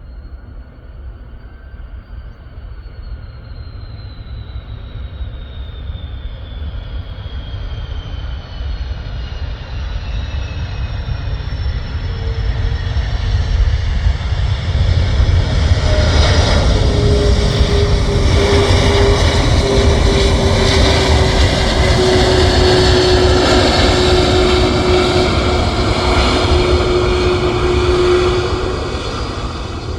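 A passenger aircraft's engines grow from a distant rumble to a loud roar over about fifteen seconds. A high whine slowly falls in pitch as the roar holds for about twelve seconds, then eases off near the end.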